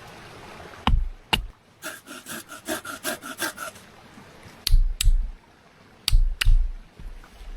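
Wood being worked by hand: sharp knocks and heavy thuds of wood, with a quick run of about a dozen hand-saw strokes in the middle.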